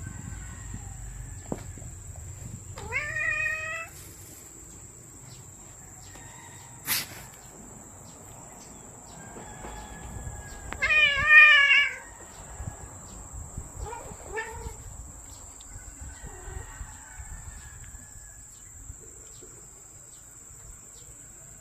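A cat meowing in several drawn-out calls, the loudest about eleven seconds in, with a single sharp click partway through.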